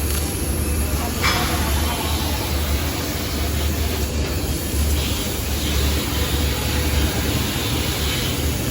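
Large-format fiber laser cutting machine running: a steady hiss over a low hum that swells and drops every second or so.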